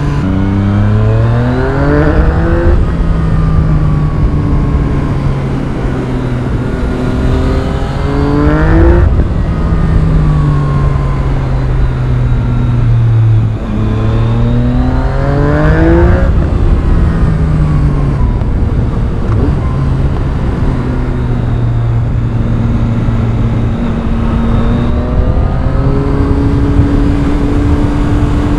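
Yamaha MT-09's 847 cc inline-three engine through an Akrapovic carbon full exhaust, accelerating through the gears. The revs climb and fall away at each upshift about three times, with steadier running between. A constant rush of wind lies under it.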